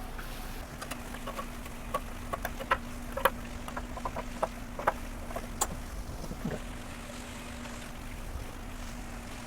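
Scattered light clicks and taps of hands working the exhaust wrap and its brackets, mostly in the first half, over a steady low hum.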